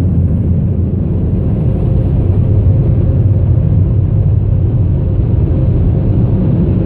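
Steady low rumble of automatic car wash machinery heard from inside the car, with a faint steady hum over it.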